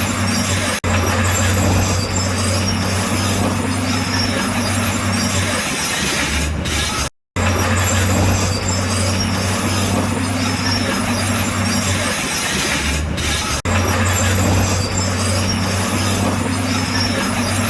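Crawler bulldozer's diesel engine running steadily: a low drone under a wide wash of mechanical noise. The sound cuts out completely for a moment about seven seconds in, then carries on as before.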